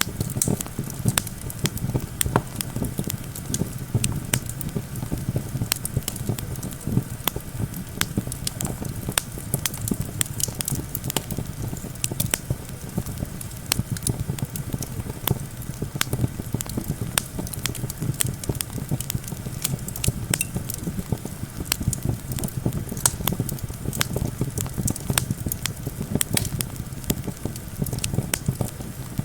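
Wood campfire crackling, with frequent irregular sharp pops over a steady low rumble of wind.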